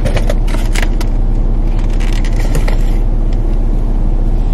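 Steady low hum of a parked car's idling engine heard from inside the cabin, with several sharp rustles and clicks in the first half as a skein of yarn with a paper label is handled.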